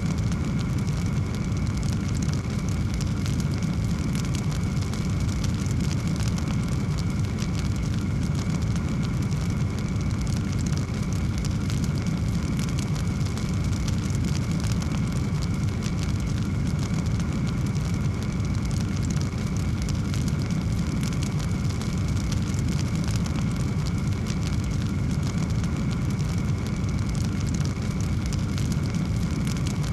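Wood fire burning in a fireplace, with a steady low rumble and a continuous scatter of small crackles and pops.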